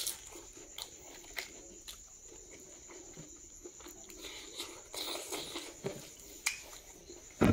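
A person chewing a mouthful of rice and pork eaten by hand, with scattered wet mouth clicks and lip smacks.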